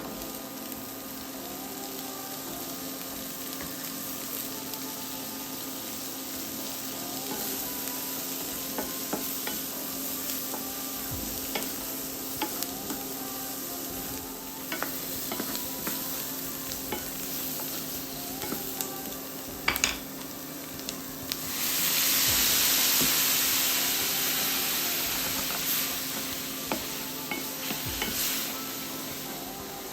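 Food frying in a sauté pan, with a utensil stirring and tapping against the pan. About two-thirds of the way through the sizzling suddenly grows much louder for about six seconds, then eases back.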